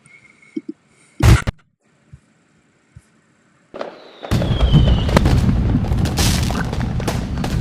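Explosion sound effect: a short loud bang about a second in, then a falling whistle and, from about four seconds in, a long dense run of booms and crackling.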